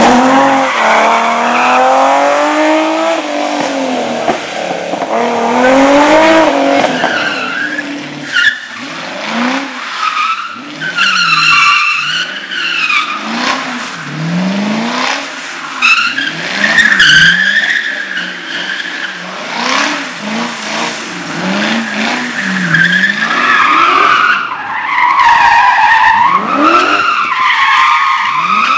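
Slalom car engine revving hard and dropping back over and over as it accelerates and brakes between cones, with tyres squealing through the turns, most strongly in the later part.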